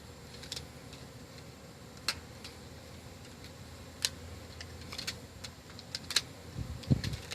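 Scattered light clicks and taps, sharp and irregular, over a faint low hum, with a dull thump near the end.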